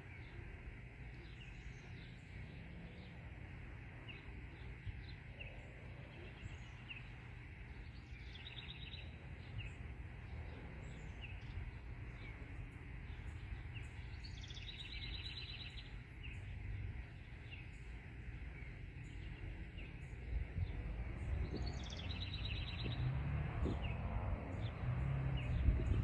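Songbird calling outdoors: many short, high chirps and three brief, rapid trills, each led by a quick upward sweep. A low rumble sits underneath and grows louder in the last few seconds.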